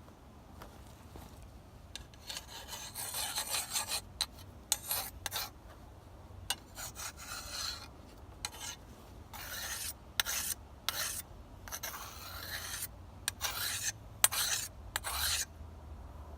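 Whetstone being stroked along an old sickle blade to sharpen it: a series of rasping strokes of varying length, starting about two seconds in.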